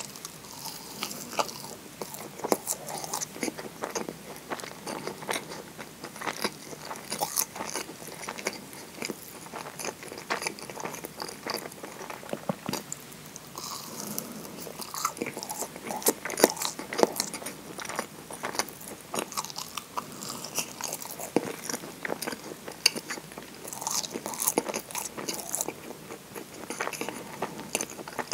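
Close-miked eating of a moist scone: biting and chewing, with many small wet clicks and crackles from the mouth.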